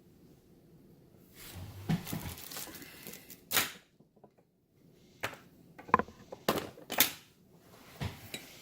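Scattered sharp clicks and knocks of small hard parts being handled, with a light rustle at first, a louder click, a short quiet gap and then a few single clicks.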